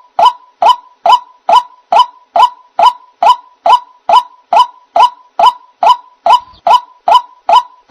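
White-breasted waterhen (ruak-ruak) call used as a trapping lure: a loud, short, rising note repeated evenly a little over twice a second.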